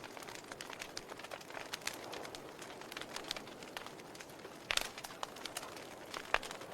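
Burning logs in a fireplace crackling, with irregular snaps and pops over a soft steady hiss. The sharpest pops come about two-thirds of the way through and near the end.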